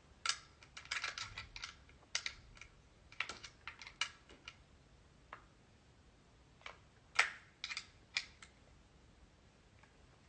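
Irregular small clicks and knocks of a CO2 BB gun being handled while its CO2 cartridge is pushed into place, with one louder knock about seven seconds in.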